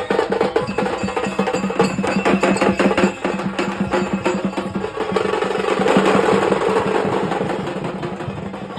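Music of fast, dense drumming with a steady held tone underneath; the sound swells about five seconds in and fades near the end.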